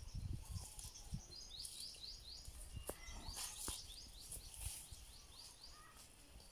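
A bird calling in two runs of quick, short, falling chirps, over a few low thumps near the start.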